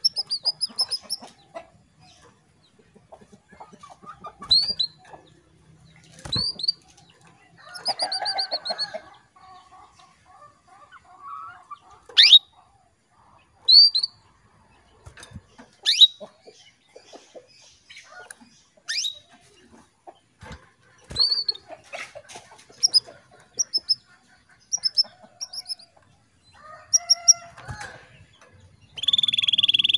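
Female canary calling: short chirps and quick trilled notes, with sharp upward-sweeping calls every second or two and a louder buzzy call at the very end. A few short knocks are mixed in.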